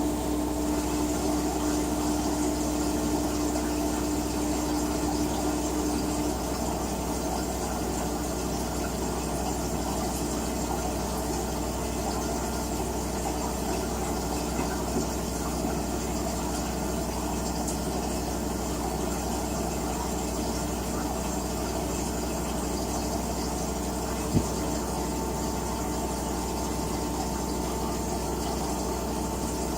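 LG WT-R852 direct-drive washing machine running through its cycle: a steady hum with a faint motor tone and a slow, even low pulse a little faster than once a second. A motor tone stops about 6 s in, and a single sharp click comes about 24 s in.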